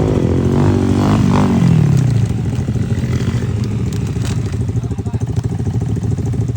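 Off-road vehicle engine running under way, its pitch dropping over the first two seconds as it comes off the throttle, then holding steady at a lower speed.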